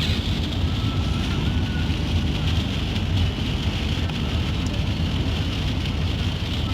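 Steady rain hiss over a continuous low vehicle rumble.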